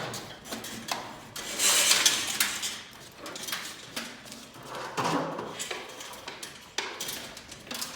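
Steel lift cable and cable drum of a garage door torsion system being handled and restrung, with irregular clicks, knocks and a louder scraping rattle about two seconds in.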